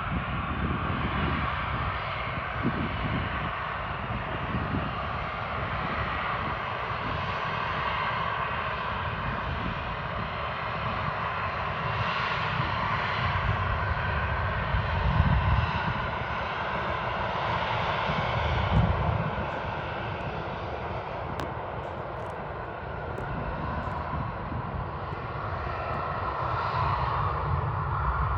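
Jet airliner engines running, a steady rushing noise that swells and eases gently, with uneven low rumbling underneath.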